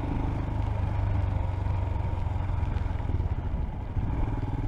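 Royal Enfield Himalayan single-cylinder motorcycle engine running as the bike is ridden, heard through a helmet microphone; the engine note dips briefly near the end.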